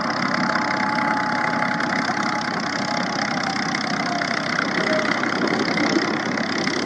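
Aircraft engine running steadily. A thin whine sits over it and drifts down in pitch a few seconds in.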